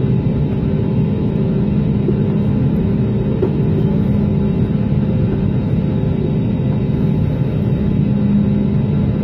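Aircraft cabin noise during takeoff and climb: engines and rushing air heard from inside the cabin as a steady low rumble with a faint hum.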